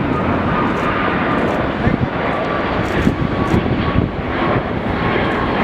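Jet airliner engines running loud, a steady rush of noise with a faint high whine held through it.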